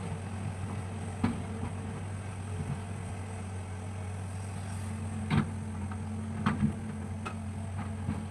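Hitachi hydraulic excavator's diesel engine running steadily, with a few sharp clunks from the machine at work: one about a second in and several more in the second half.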